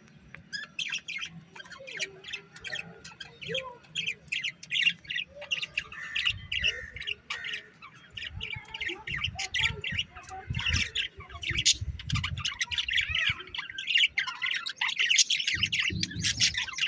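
Small pet birds chirping and squawking in a dense, overlapping chatter that starts about half a second in and grows busier toward the end, with a few low thuds now and then.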